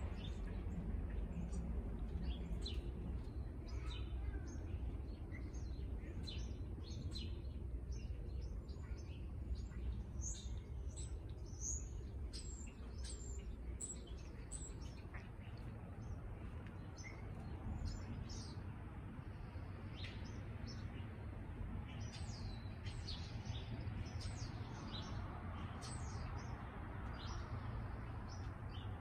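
Small birds chirping in many short, high-pitched calls, over a steady low rumble of outdoor background noise.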